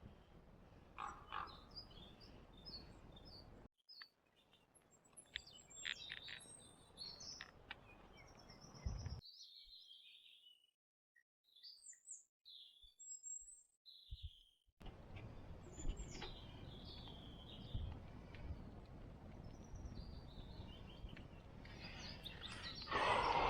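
Small songbirds chirping in woodland: many short, high calls scattered over a faint background hiss, with a louder rustling burst near the end.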